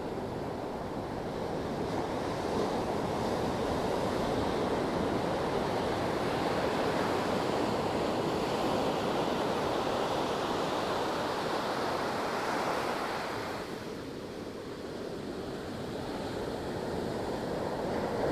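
Sea waves washing ashore as a continuous rush of surf, swelling over several seconds, easing off about two-thirds of the way through and building again near the end.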